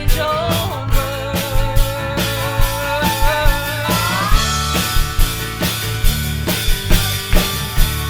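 Americana band playing a song: a drum kit keeps a steady beat of about two hits a second under bass and sustained, wavering melody lines, one of which slides upward about four seconds in.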